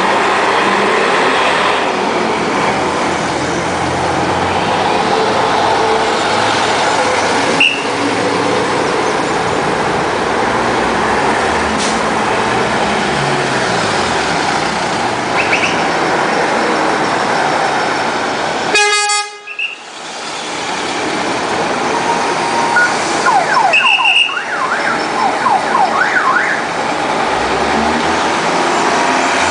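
Classic trucks driving past with their engines running, and a truck horn sounding briefly about two-thirds of the way in, followed by a few more short toots.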